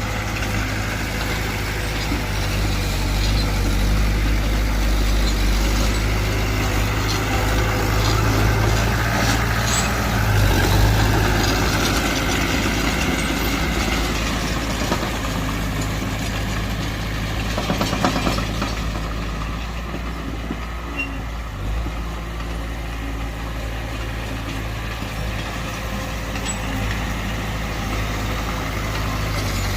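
Diesel engines of heavy earthmoving machinery running steadily, with a deep, even engine hum. It grows louder for several seconds, as under load, then eases back.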